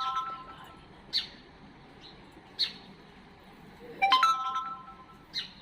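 A pet sparrow giving three short, sharp single chirps, spaced a second or more apart. A louder electronic melody of steady tones, like a ringtone, sounds at the start and again about four seconds in.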